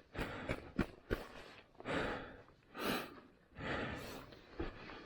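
A person breathing hard, in heavy breaths about once a second, between sharp clacks of loose rocks knocked together as they are lifted and restacked into a ramp.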